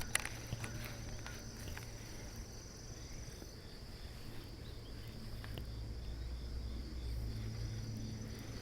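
Insects trilling steadily in a high, thin tone that drops out a little before halfway and comes back near the end, over a low steady rumble.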